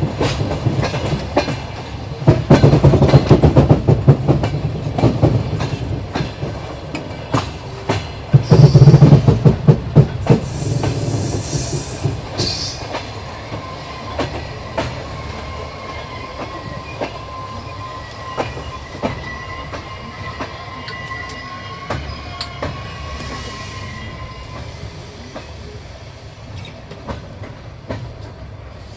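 Passenger train carriage running over rail joints: the wheels clatter rhythmically, loudest in the first half, then fade down as a thin steady squeal from the wheels sounds for about ten seconds.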